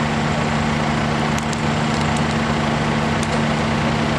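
Tractor engine idling steadily, an even low running sound with no revving.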